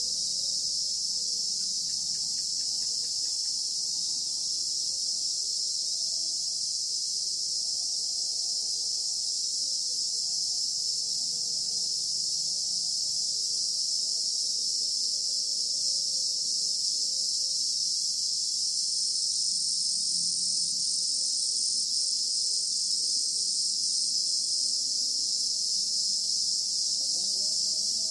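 Chorus of insects, crickets or cicadas, keeping up a steady, shrill, high-pitched drone that never lets up. A second, higher strand joins in for several seconds past the middle.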